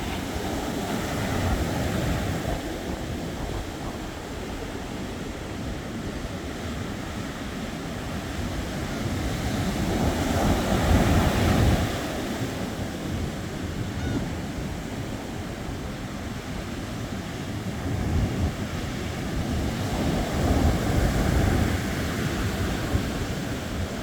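Ocean surf washing in with wind on the microphone, the wash swelling loudest about ten seconds in and again near twenty seconds.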